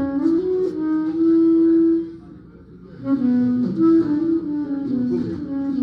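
A melody played on one instrument with smoothly held notes: a phrase that ends about two seconds in, a short pause, then a second phrase.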